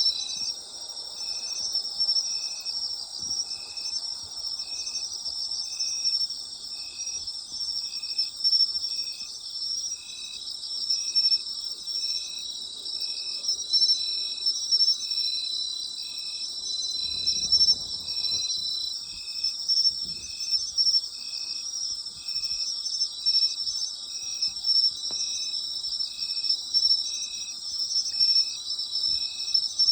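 Night chorus of autumn insects: a dense high trilling with a steady high drone over it, and one insect chirping in an even rhythm about once a second.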